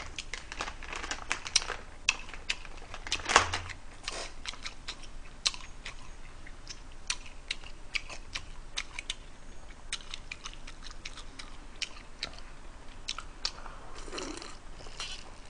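A person chewing food close to the microphone, with many small wet mouth clicks. Near the end he drinks from a glass.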